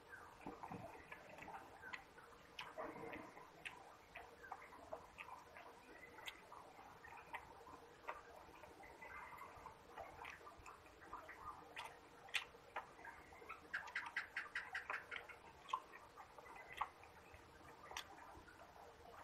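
Close-up eating sounds of a person chewing rice eaten by hand: soft, scattered chewing clicks and lip smacks, with a quick run of smacks about two-thirds through.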